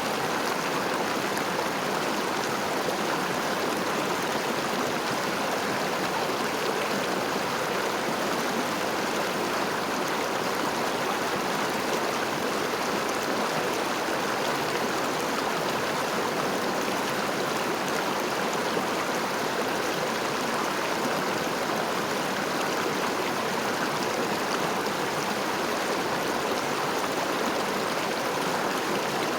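River water flowing, a steady, unbroken rush with no breaks or separate splashes.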